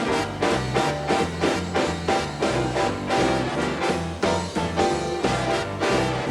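Swing jazz band playing with brass and drums, a bass line stepping from note to note under a steady beat.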